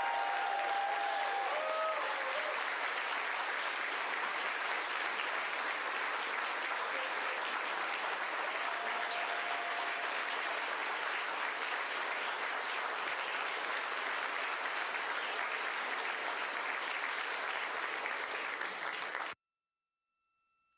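Sustained applause from a crowd, a dense even clatter of many hands that stops abruptly near the end.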